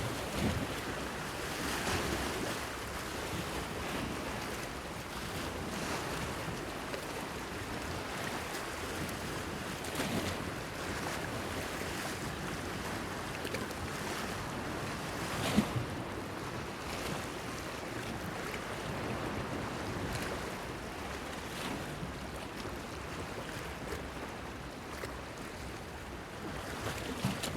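Small waves washing steadily against a breakwater pier, with a few sharper slaps of water on the stones, the loudest about halfway through.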